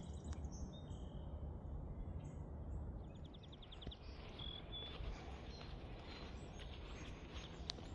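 Several small songbirds singing and chirping, with a fast trill about three seconds in, over a low rumble of wind and light footsteps on the path.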